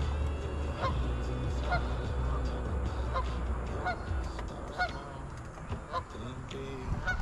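Honking bird calls repeated about once a second, over a low steady drone that fades out about halfway through.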